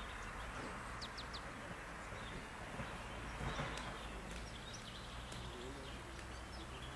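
Faint outdoor background noise with a few short, high bird chirps about a second in.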